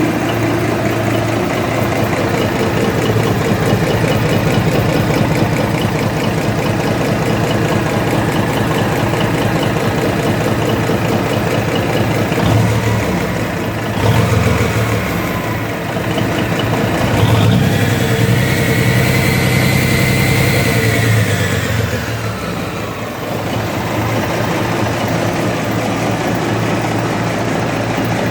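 Cummins NTA855 turbocharged inline-six diesel running on a break-in run after rebuild, idling steadily, then revved up about halfway through with a rising whine that holds for a few seconds before it drops back to idle.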